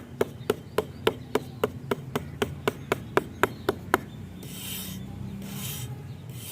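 Small wooden pieces being worked by hand: even sharp taps, about four a second, for the first four seconds, then two rasping strokes across the wood.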